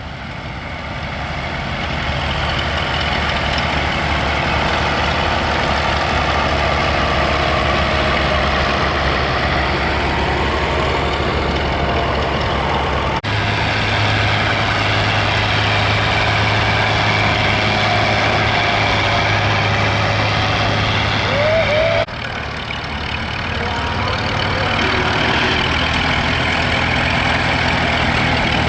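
Vintage farm tractor engines running steadily, a low, even engine note; the note changes abruptly twice.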